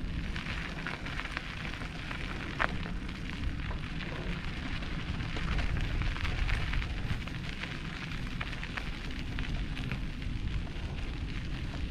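Mountain bike rolling over a rough, rocky dirt trail: tyres crunching on loose rocks with many small clicks and rattles over a steady low rumble.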